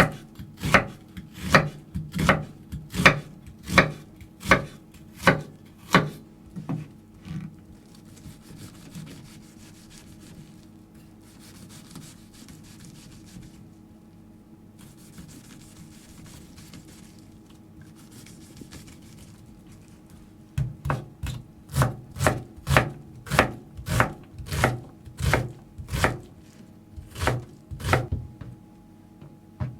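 Steady chopping strikes on wood, about one every 0.7 s, in two runs separated by a quieter stretch of faint scraping hiss.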